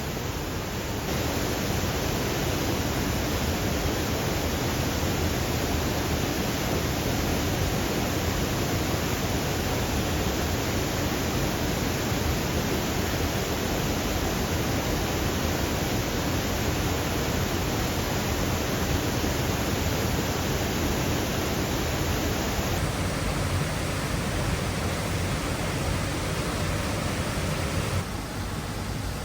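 Waterfall: a loud, steady rush of falling water, even and unbroken, shifting slightly in tone twice near the end.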